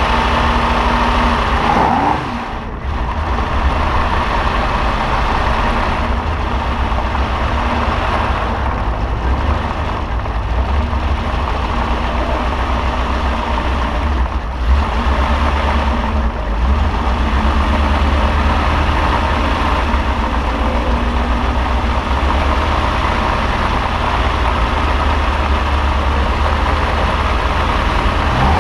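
Freshly rebuilt 3-litre Colombo V12 of a 1962 Ferrari 250 GT/E running steadily at low revs as the car moves slowly, heard close up from above the open engine bay, with a heavy low rumble.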